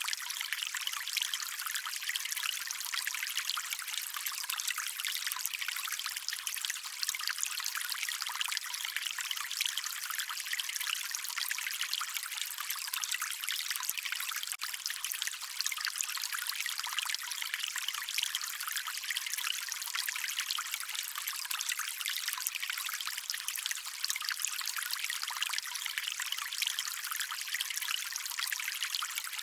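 Shallow stream water trickling and babbling steadily, a bright, fizzy splashing with almost no low rumble.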